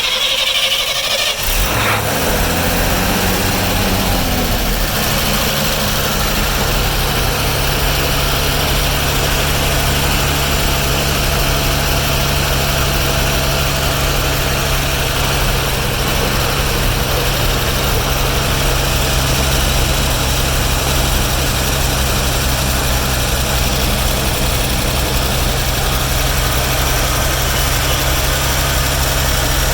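1954 Chevrolet 3100 pickup's 235 straight-six cold-started on full choke after sitting a week. It catches within about two seconds, the revs rise and settle over the next few seconds, and it then runs at a steady choked fast idle.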